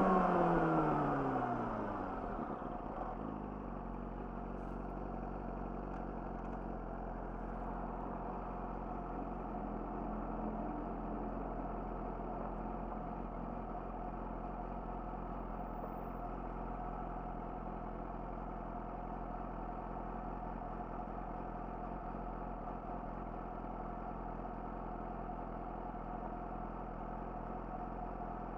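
Yamaha YZF-R6's inline-four through an Akrapovic slip-on exhaust: the revs fall away over the first couple of seconds as the throttle is closed, then the engine idles steadily for the rest of the time.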